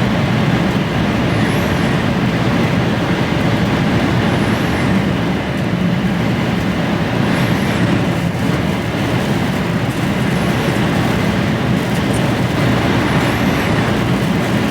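Inside the cab of an HGV lorry climbing a hill: the diesel engine running steadily under load, mixed with storm wind and road noise. A faint high squeak comes back about every three seconds.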